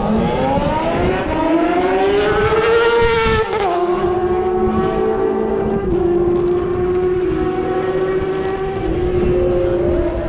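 A car's engine at full throttle on a drag run. Its pitch rises steadily for about three and a half seconds, drops suddenly at a gear change, then holds high with smaller dips near six and nine seconds in.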